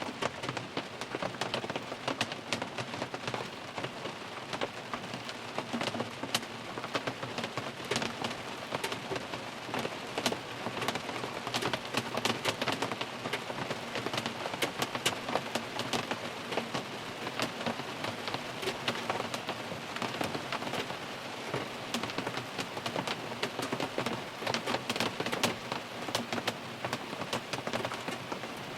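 Steady rain falling on a car, heard from inside the cabin, with many sharp individual drop taps over a continuous patter.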